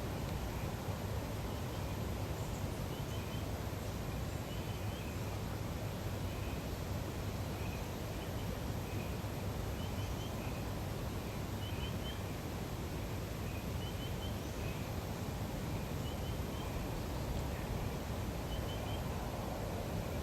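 Lakeside nature ambience: a steady background hiss, with a small bird repeating short, quick high chirps in twos and threes every couple of seconds.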